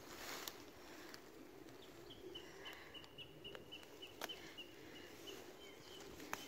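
Faint bird call: a steady series of short notes on one pitch, about four a second, starting about two seconds in and stopping near the end. Under it are light rustling and a few sharp snaps as nettle stems are handled by hand.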